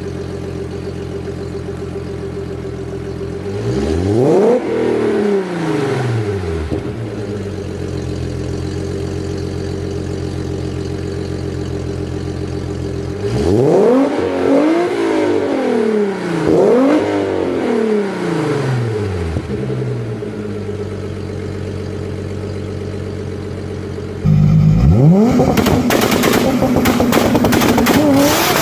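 Volkswagen VR6 narrow-angle six-cylinder engine idling steadily, blipped once about four seconds in and revved three times in quick succession around fourteen to nineteen seconds in, each rev rising and falling back to idle. Near the end it gives way to a louder engine running hard with a clatter of sharp cracks.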